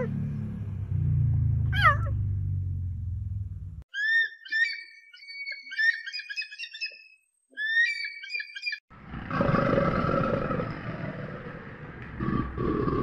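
A cheetah's low rumbling purr with one high, falling chirp about two seconds in; then young kestrels calling in rapid, shrill chirps for about five seconds; then a harsh, noisy crocodile hiss for the last four seconds.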